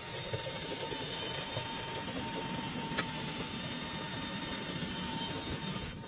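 Dryer vent cleaning vacuum running: a steady rushing hiss of air with a thin steady whine, and a brief click about three seconds in.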